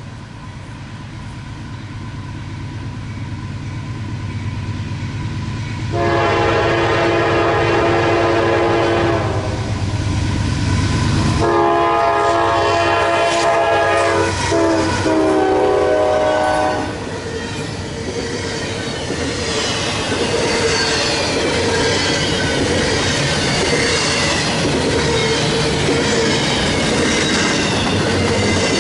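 A Norfolk Southern train's diesel locomotive approaching with a low rumble that grows louder, then its multi-note air horn sounding three times, two long blasts and a shorter final one, starting about six seconds in. The train then passes with steady rail clatter and wheel squeal.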